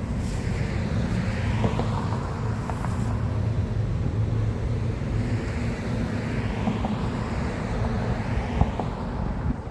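Steady low rumble of street traffic, with cars passing by and a few faint clicks, one sharper knock near the end.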